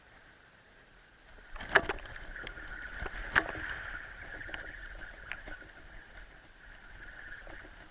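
Water sloshing and splashing close to the microphone, starting about a second and a half in. Two sharp knocks come about two seconds apart, a few lighter clicks follow, and a steady high hum runs underneath.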